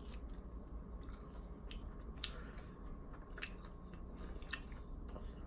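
A person chewing a mouthful of battered fried chicken close to the microphone: scattered soft, wet mouth clicks at irregular intervals.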